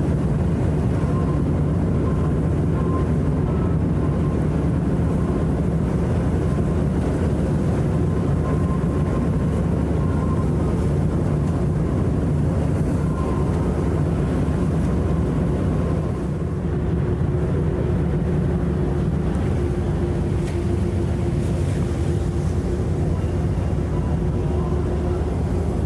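Icebreaker ship's engines running with a steady low drone and a dense rumbling noise over it, dipping briefly about two-thirds of the way through.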